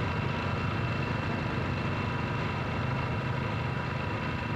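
A tractor engine running steadily at low revs, with no change in speed.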